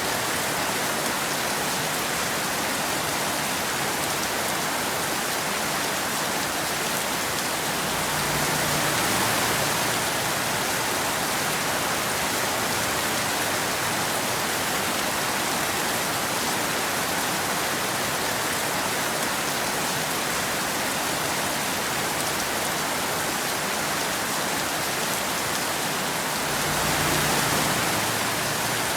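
Steady rain, an even hiss of falling drops, swelling briefly twice: about a third of the way in and near the end.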